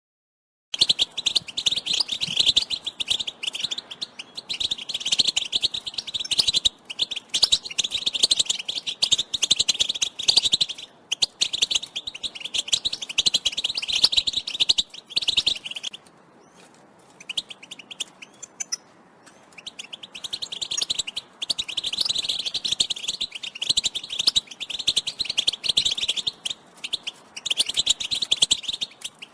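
European goldfinch twittering in fast, dense runs of high chirps, starting just under a second in. There is a few-second lull about halfway through with only a few faint notes. These are the excited calls used to prompt male goldfinches to sing.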